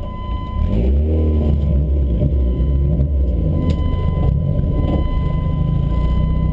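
Car engine running, heard from inside the cabin. An engine revs up and down about a second in, then settles to a steady idle.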